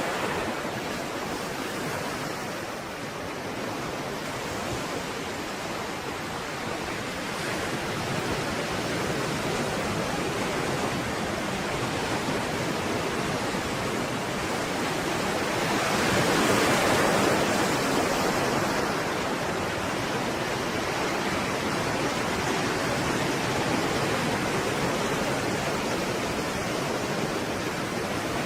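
Stormy sea waves breaking and washing in, a continuous rushing noise of surf that swells louder once about two-thirds of the way through.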